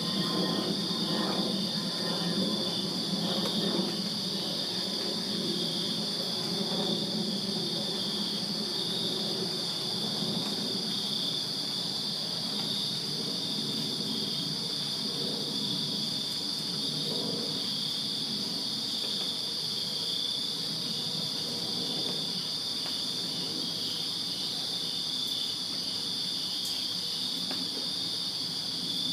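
Crickets chirping in a steady night chorus: a continuous high trill with regular pulsed chirps just below it. A low rumble, loudest at the start, fades away over the first ten seconds or so.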